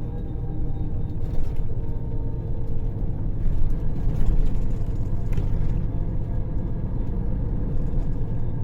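Diesel engine of a Scania K400 bus running steadily, a low, even drone.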